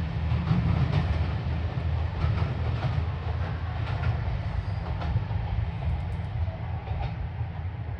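Two-car diesel railcar train, a KiHa 47 and a KiHa 125, running out of the station with a steady low engine rumble and the clatter of wheels over rail joints.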